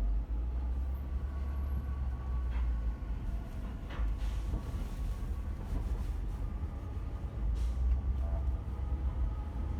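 Steady low rumble of a car driving, heard inside the cabin: engine and road noise, with faint higher tones and a few light ticks.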